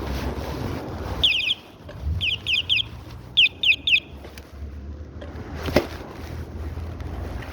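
A bird calling: three quick bursts, each of three short, high, falling notes, over a low rumble of wind on the microphone, with one sharp click near the end.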